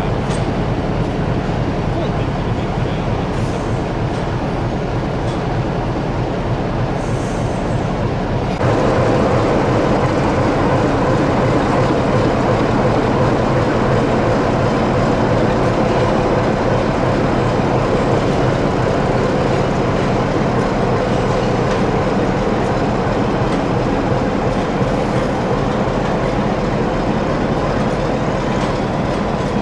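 Train sounds at a station platform: first an electric multiple unit, then from about nine seconds in the steady drone of a diesel locomotive's engine as it hauls passenger coaches away.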